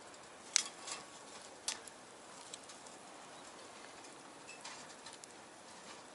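Small wood fire crackling in a stainless-steel box stove: a faint steady hiss with a few sharp pops, the loudest about half a second in and another just under two seconds in.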